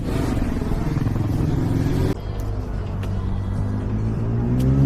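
Motorcycle engines running, the pitch sinking over the first two seconds. There is a sudden drop in loudness about two seconds in, and an engine revs up near the end.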